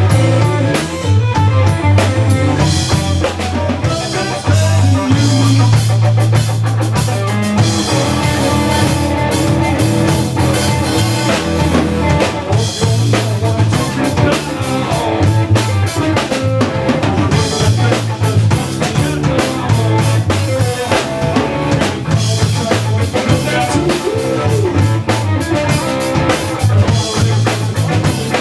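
Texas blues-rock band playing live: a drum kit keeps a steady beat under bass and electric guitar.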